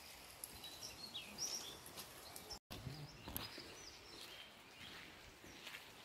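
Faint outdoor ambience with several short, high bird chirps. The sound drops out for a split second about two and a half seconds in, and a soft low thump follows just after.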